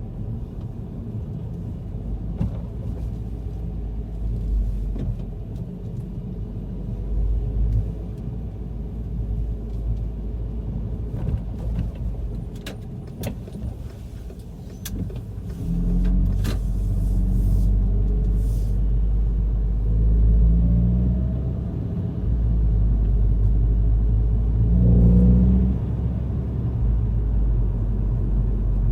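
VW Golf GTI mk5 driving, with engine and road rumble and several sharp clunks about halfway through; the engine grows louder from about 16 s. The clunk is one the owner has not traced despite new engine and transmission mounts, stabilizer links, suspension and CV joint.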